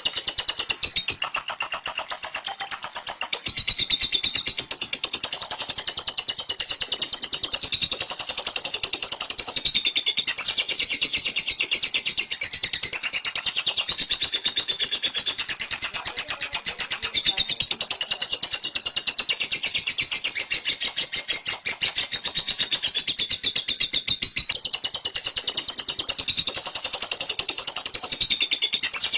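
Lovebird's 'ngekek': a long, rapid, high-pitched chattering trill that runs on without a break, the pitch shifting slightly every second or two. This is the sustained 'konslet' style of ngekek.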